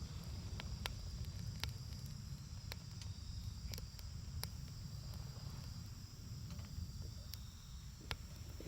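Campfire burning, with irregular sharp crackles and pops over a low rumble. A steady high-pitched insect chirring runs underneath.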